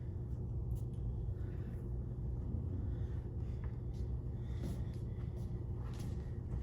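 Room tone: a steady low hum, with a few faint rustles and light taps.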